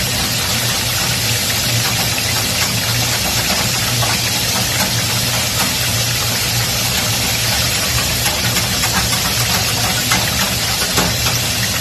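Potato slices deep-frying in oil in a pan, a steady sizzle, over a low steady hum, while a wire whisk stirs béchamel sauce in a saucepan.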